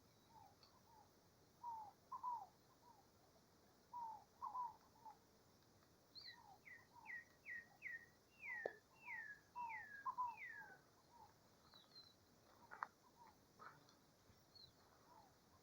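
Birds singing and calling, faint. Short low chirps come throughout, and in the middle one bird gives a run of about eight quick notes, each sliding downward.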